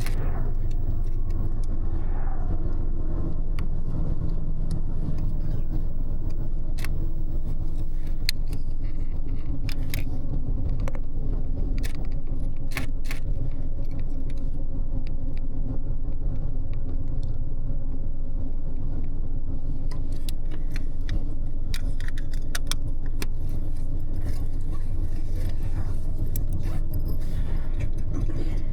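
Double-decker express bus running steadily, heard from the upper deck: a constant low engine and road rumble, with frequent small rattles and clicks throughout, busier in the second half.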